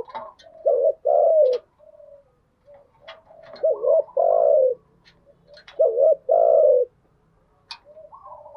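Spotted dove cooing: three two-part phrases about two and a half seconds apart, each a short wavering note followed by a longer, falling one. Faint sharp ticks come between the phrases.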